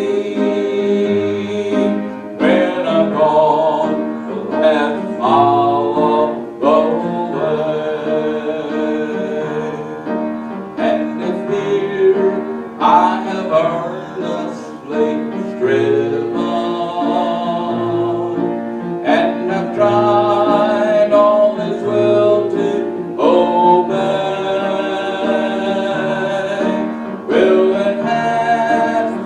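Church hymn music: a congregation singing with piano accompaniment, with held notes and a steady bass line.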